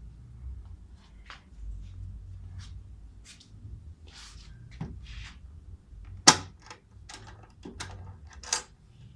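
Clicks, knocks and short scrapes of a steel tool box being handled. A sharp click about six seconds in is the loudest, and more clicks follow near the end.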